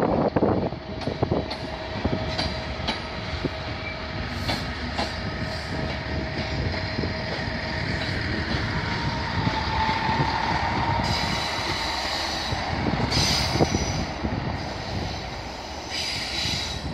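Locomotive-hauled passenger train of coaches with a driving van trailer moving slowly through the station. The wheels rumble steadily and click over the points and rail joints, with a thin wheel squeal around the middle.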